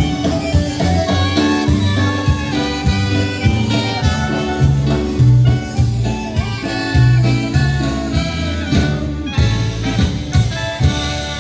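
Live polka band playing an instrumental passage with a steady beat, the music thinning out to held notes near the end.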